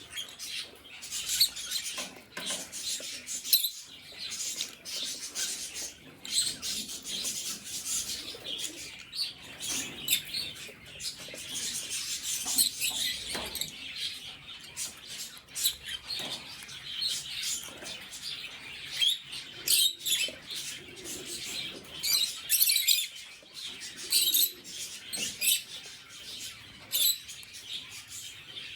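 Lutino lovebirds chirping continuously in a busy chatter of rapid, high calls, with some short clicks and flutters mixed in.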